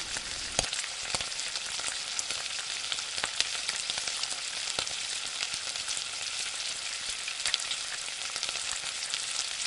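Thick curry gravy with paneer tikka pieces sizzling and bubbling in a non-stick pan as a wooden spatula stirs through it gently. Scattered light clicks and scrapes of the spatula against the pan sound over a steady sizzle.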